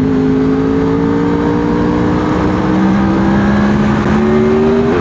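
Honda VFR800 VTEC's V4 engine pulling steadily under way, its pitch rising slowly as the motorcycle gathers speed, over a steady rush of noise. Near the end the tone has a brief hitch before settling again.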